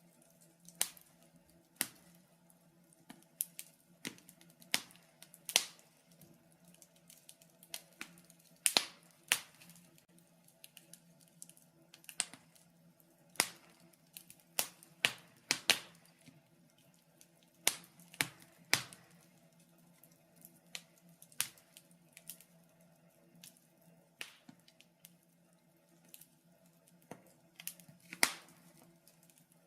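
Wood fire crackling in a fireplace: irregular sharp pops and snaps, one every second or two, some louder than others, over a faint steady hum.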